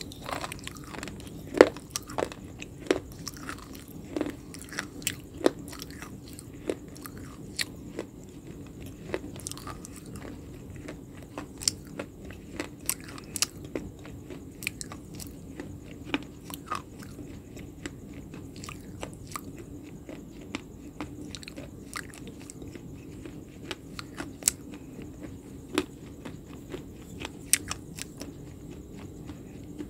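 Close-up mouth chewing something hard and brittle, with sharp, irregular crunches about once or twice a second over a steady low hum.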